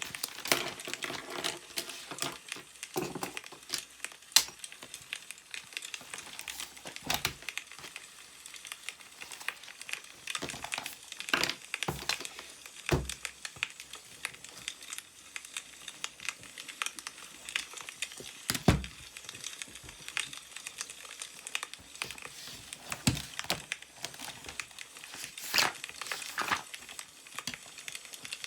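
Newspaper pages rustling and crinkling as they are handled and turned, with irregular sharp clicks and snaps scattered throughout.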